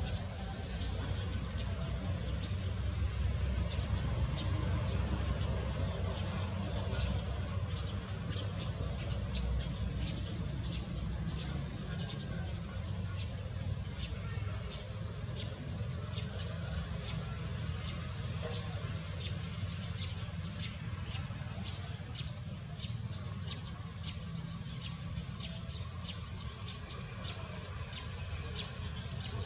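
Steady high-pitched drone of crickets or other insects, with a low rumble underneath. A bird gives a few short, sharp calls over it: one about five seconds in, a quick double call around sixteen seconds, and another near the end.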